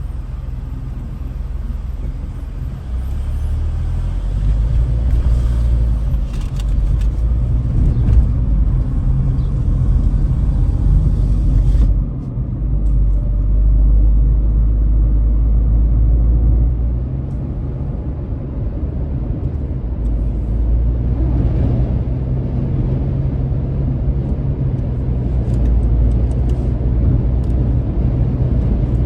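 Steady low road and wind rumble inside the cabin of a Nissan Magnite compact SUV cruising at highway speed. The higher hiss above the rumble drops away suddenly about twelve seconds in.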